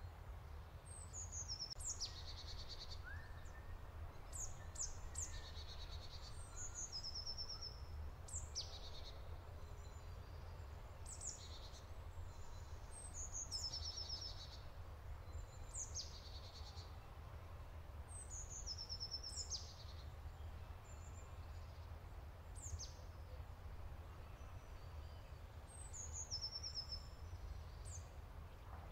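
A bird calling repeatedly: short, high-pitched notes that sweep downward, some ending in a quick trill, every second or two, over a steady low rumble.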